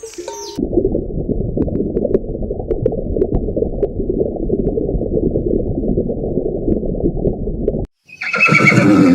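Horse hooves galloping: a dense, fast low rumble of hoofbeats for about seven seconds that stops abruptly. A horse then gives one short, loud whinny near the end.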